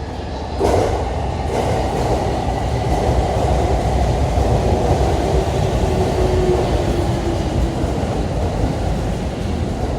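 Commuter train pulling into a station platform as it slows. A rush of wheel and rail noise swells about half a second in, and a faint whine falls in pitch as the train brakes.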